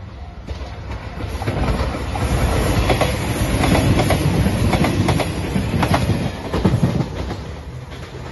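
JR Shikoku 2700 series diesel limited-express train passing close by: the rumble of its engines and wheels builds over the first couple of seconds, with repeated clacks of the wheels over rail joints, then falls away near the end as it goes off. A level-crossing warning bell rings briefly at the start.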